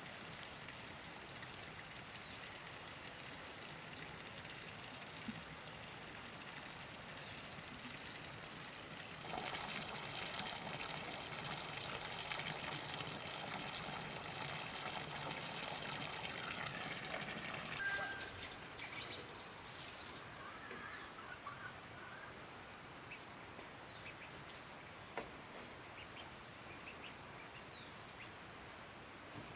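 Water trickling and splashing, louder from about a third of the way in until just past the middle, over a steady high-pitched hum, with a few brief bird chirps.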